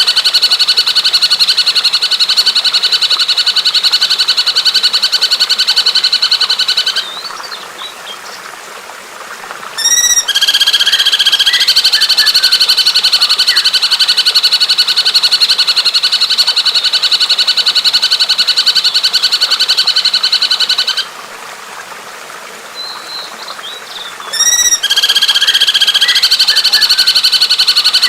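Bird-song tutor recording: a loud, fast, buzzy trill held at one steady pitch for long stretches. It breaks off twice for a few seconds, filled with soft chirps and a quick run of notes, before the trill starts again.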